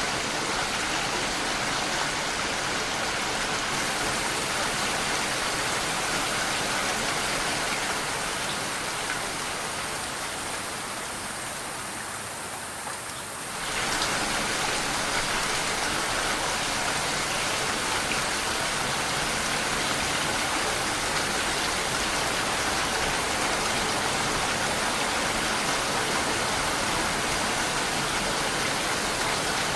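Steady rain falling, an even hiss. About a third of the way in it grows softer for a few seconds, then comes back abruptly to full strength.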